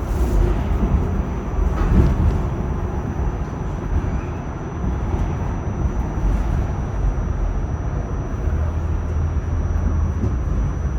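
R46 subway car running on the rails: a steady low rumble of wheels and running gear, with sharp clacks at the start and about two seconds in.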